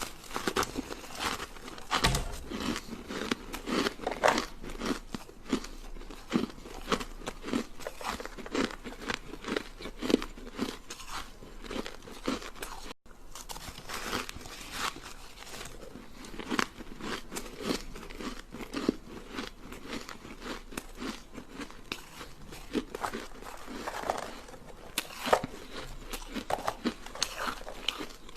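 Short sticks of ice being bitten and chewed, a dense run of sharp crunching and cracking close to the microphone. There is a momentary break about 13 seconds in.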